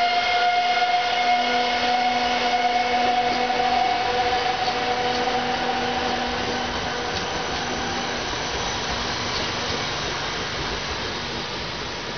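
Passenger train running past and moving away: a whine of several steady tones over the rumble of the wheels on the rails. The whine rises slightly in pitch and dies away about seven seconds in, and the whole sound slowly fades as the train recedes.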